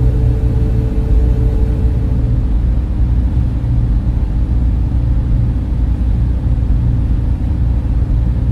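Server room cooling fans running in a loud, steady drone, with a deep hum underneath and a few steady tones; one higher tone fades out about two seconds in.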